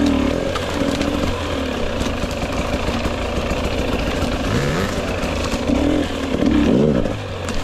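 GasGas EX 250 fuel-injected two-stroke dirt bike engine running under riding throttle, the revs rising and falling, with a few quick climbs and drops in pitch in the second half.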